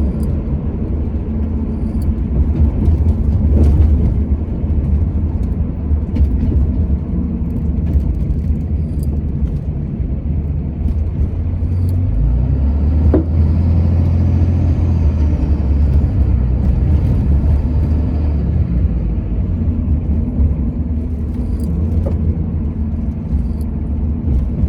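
Motor vehicle driving: a steady low engine and road rumble that shifts in pitch about twelve seconds in, with a few faint clicks.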